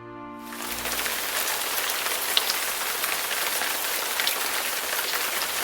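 Rain falling steadily, with individual drops ticking through the downpour. It cuts in sharply about half a second in, as the tail of orchestral music fades out.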